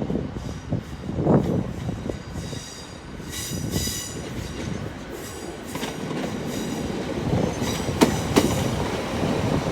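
Class 150 Sprinter diesel multiple unit, two units coupled, pulling into the platform. The wheels squeal high-pitched for a moment about four seconds in, and near the end the wheels click over rail joints as it comes closer.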